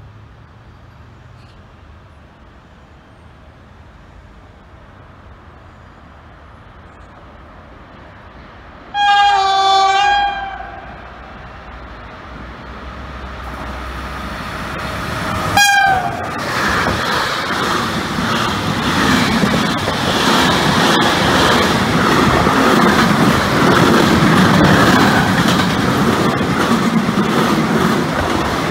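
Electric locomotive hauling an intermodal freight train of semitrailers approaching. It sounds its horn once for about a second and a half, then gives a short second blast, and the wagons pass at speed with a loud rushing rumble and the wheels clattering over the rail joints.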